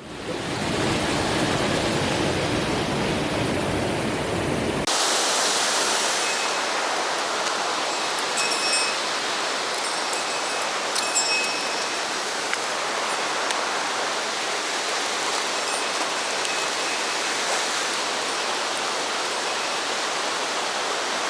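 Steady rushing of a mountain stream's water over rocks. About five seconds in, the sound cuts abruptly from a deeper rush to a brighter, hissier one, and a few faint high chirps sound in the middle.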